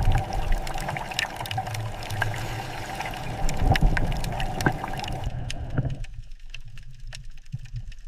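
Water gurgling and sloshing, with many scattered sharp clicks and knocks. About six seconds in, the higher sounds drop away, leaving only a low rumble.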